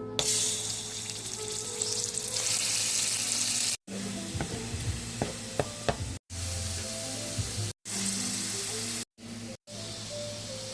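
Frozen seasoning cubes sizzling loudly in a hot pan for the first few seconds, then quieter sizzling with a utensil clicking and knocking as it is stirred. Background music plays under it.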